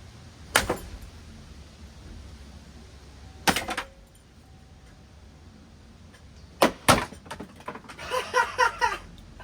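Sharp hard knocks as a running Hunter Coastal Breeze Plus ceiling fan is struck with a hockey stick. One comes about half a second in, one about three and a half seconds in, and two in quick succession about seven seconds in. A quick run of short pitched rattling pulses follows near the end.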